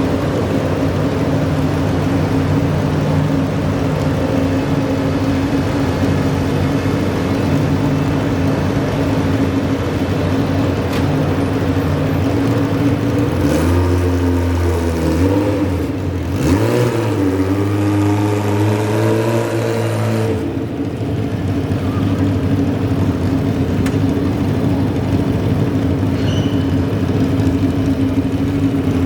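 Garden tractor engine running steadily. About halfway through, its pitch shifts and rises for several seconds, then settles back to the earlier steady note.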